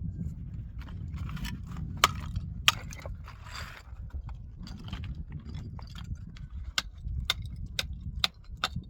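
Building work with hand tools: scattered sharp knocks and a brief scrape, then a run of about five knocks roughly half a second apart near the end, over a steady low rumble.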